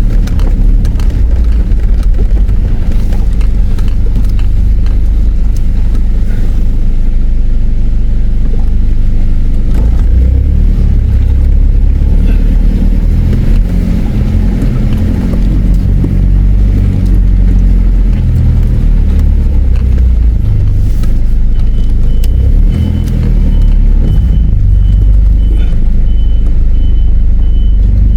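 A vehicle driving slowly over a rough off-road track, heard from inside the cabin: a steady low engine and road rumble with uneven bumps. In the last several seconds a high-pitched electronic beep repeats steadily.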